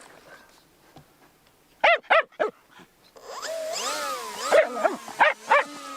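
Dog barking excitedly: three quick barks about two seconds in, then yelps and more barks from about three seconds in. Under the later barks is the steady whine of the RC plane's electric motor running up to taxi.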